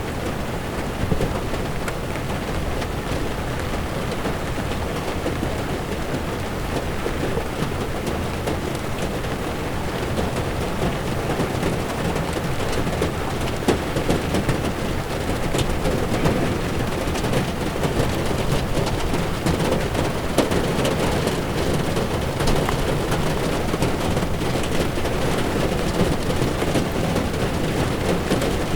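Heavy rain pattering on a car's windshield, with a constant low rumble of tyres on wet road.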